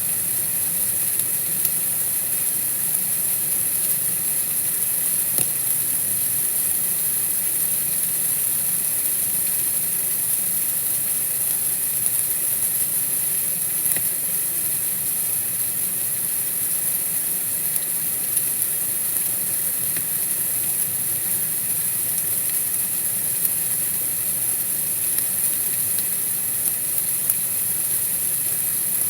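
Steady, even hiss of backyard winter-night ambience used as white noise, strongest in the high register, with a few faint ticks scattered through it.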